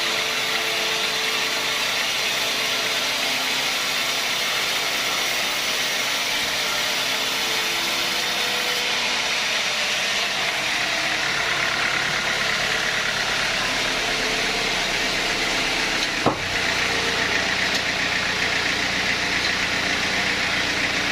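Sawmill machinery running steadily with its engine idling, no cut under way. About three-quarters of the way through a sharp click comes and the running sound shifts, with a heavier low hum after it.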